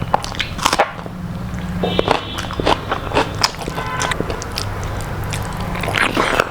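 Close-up eating sounds: crunchy bites and chewing of crispy fried food, with many short sharp crackles and clicks. A steady low hum runs beneath.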